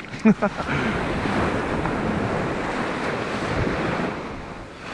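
Sea surf on the beach: a wave washes in, builds for a few seconds and fades, with wind on the microphone. A brief voice sound comes right at the start.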